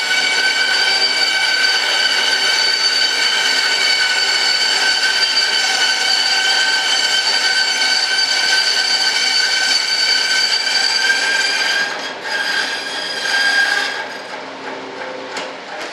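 Small high-speed electric power tool running with a steady high-pitched whine. It cuts off about twelve seconds in, runs again briefly, then stops.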